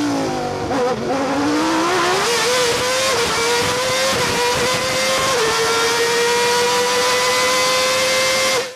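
A car engine revving. Its pitch drops, then climbs and holds high and steady, with a brief dip about five seconds in, before cutting off suddenly near the end.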